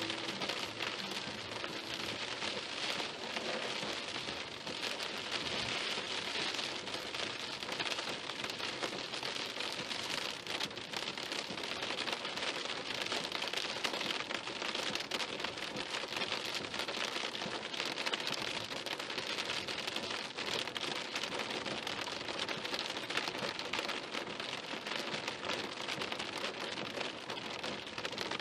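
Rain from a summer storm striking a car, heard as a dense, steady patter of countless drops.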